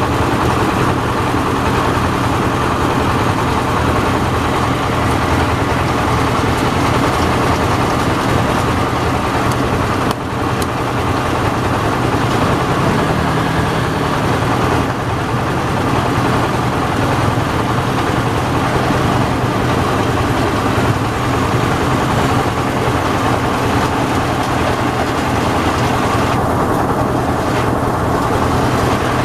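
Yanmar AW70V combine harvester's diesel engine and machinery running steadily under load, with one brief dip about ten seconds in.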